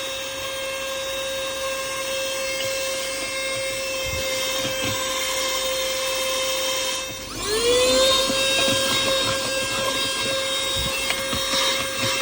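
Lachesis cordless handheld car vacuum running with a steady high motor whine while its nozzle works debris out of the car's cup holders. About seven seconds in the whine cuts out briefly and spins back up to the same pitch, with light knocks of the nozzle against the plastic.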